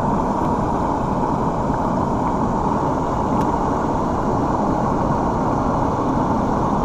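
Steady rushing roar of a nearby waterfall, an even, unbroken wash of falling water.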